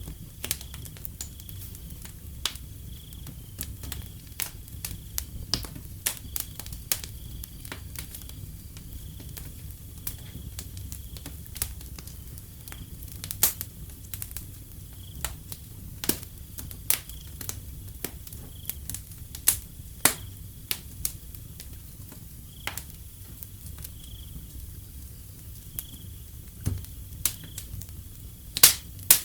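Wood fire crackling, with frequent sharp pops and snaps at irregular intervals over a steady low rumble. A cricket chirps in short high chirps, repeating about once a second.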